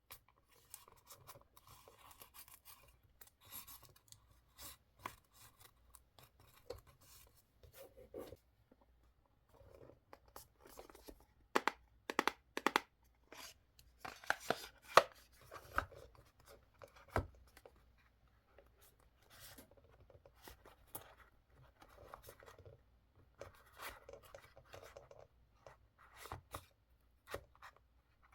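Close-up paper-crafting sounds: sheets of paper rustling and being handled, with irregular sharp clicks and taps on the desk, the loudest cluster in the middle.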